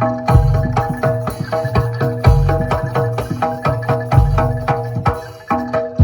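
Live jaranan gamelan music: drums and struck metal percussion playing a quick, steady beat, with deep bass-drum strokes under ringing pitched notes.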